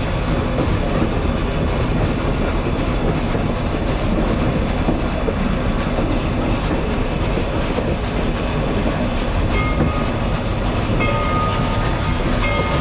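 Passenger train under way, heard from an open observation car: a steady rumble and rattle of wheels on the rails. Faint high steady tones come in near the end.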